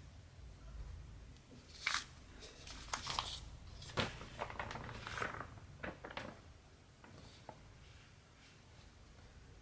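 Irregular rustling and sharp clicks of hands handling cross-stitch materials, clustered in the middle few seconds and then dying away.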